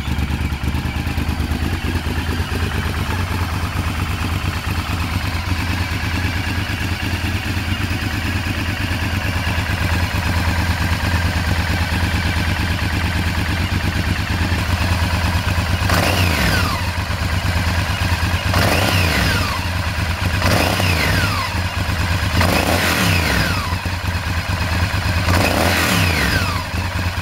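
Honda VTR1000F's 90-degree V-twin idling through a Yamamoto Racing aftermarket exhaust. In the second half come five quick throttle blips, each revving up sharply and falling back to idle.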